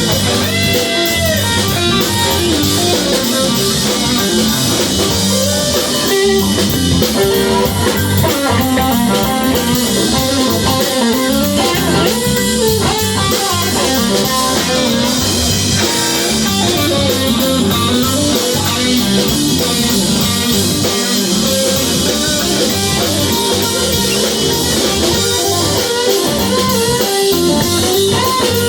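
Live band playing an instrumental passage led by guitar, with drums underneath.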